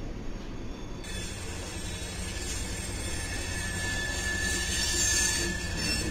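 Norfolk Southern freight train rolling past, its locomotives and cars rumbling on the rails. About two seconds in, a single high, steady wheel squeal sets in and holds until near the end.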